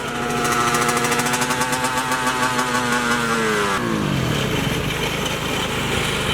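Dirt bike engine held at steady high revs; about three seconds in the revs fall away and it drops to a lower, uneven idle. The rider thinks the engine has blown a head gasket.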